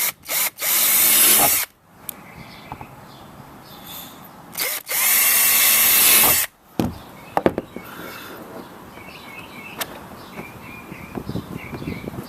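Power drill with a 3/16-inch bit drilling rivet holes through a kayak: a few short blips, then two steady runs, the first about a second long and the second about a second and a half.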